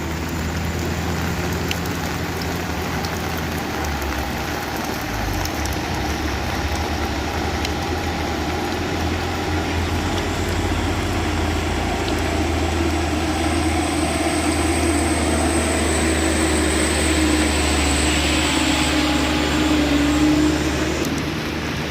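Heavy vehicle engine running steadily, with a faint high whine for several seconds past the middle.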